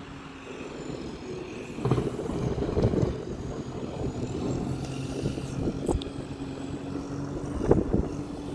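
Storm wind buffeting the microphone in gusts, with a steady low hum underneath and a single sharp click about six seconds in.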